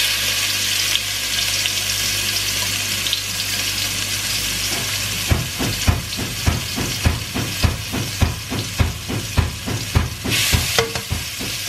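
Ground shallot-and-garlic spice paste sizzling in hot oil in a wok, a steady loud hiss. Under it a low hum, the washing machine running, stops about five seconds in, and a quick regular knocking of about three strokes a second follows.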